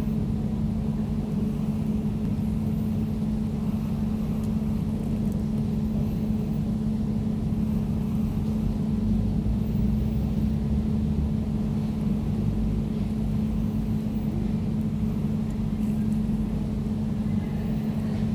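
Air conditioner running: a steady hum with one constant tone over a low rumble, unchanging throughout.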